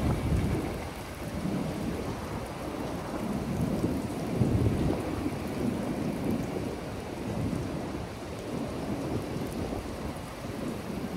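Thunderstorm: rolling thunder rumbling almost without a break over steady rain, with the loudest swell about four and a half seconds in.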